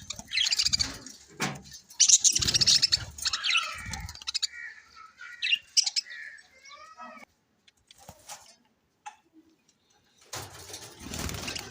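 Pet budgerigars chirping and chattering in quick bursts, with a near-quiet pause about eight seconds in. A loud rushing noise comes in near the end.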